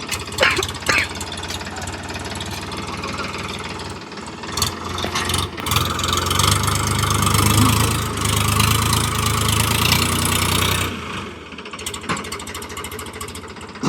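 Tractor diesel engine running, revving up hard for about five seconds midway, then dropping back to idle, as it strains to pull a stuck trolley of sugarcane.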